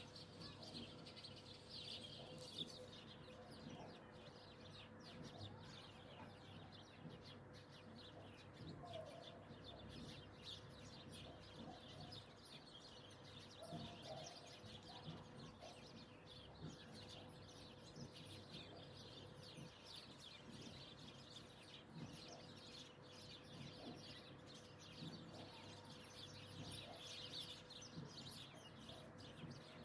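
Near silence, with faint high chirping of birds throughout and a faint steady hum.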